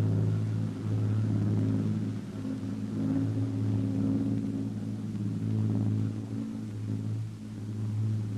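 Low, steady drone of piston aircraft engines, swelling and fading slightly in level.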